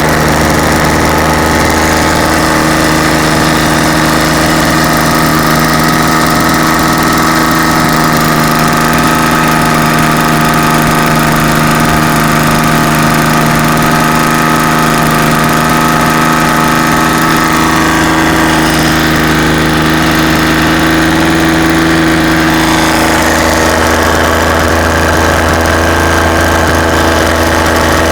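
Rebuilt WSK Gnom R06 engine running steadily with its muffler fitted, after an overhaul. Its note shifts slightly about two-thirds of the way in.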